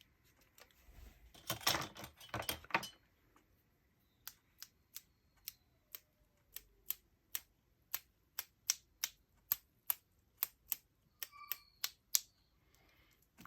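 Paintbrush tapped repeatedly to flick black watercolor splatters onto paper: a run of sharp little clicks, about two or three a second, after a few seconds of handling noise.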